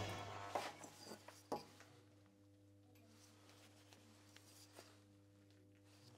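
Wood lathe running quietly with no tool on the wood: a faint steady hum, with a few light clicks in the first second and a half.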